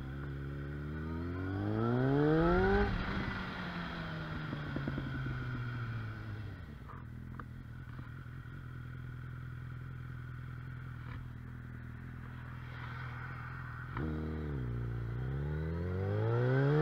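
Motorcycle engine and exhaust under way: the revs climb about a second in, drop back after about three seconds and settle low and steady, then jump suddenly near the end and climb again as it accelerates.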